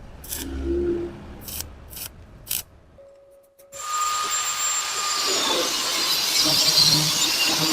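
A few short knocks and scrapes of metal being handled, then, about four seconds in, a power tool starts and runs steadily with a high whine, working the metal.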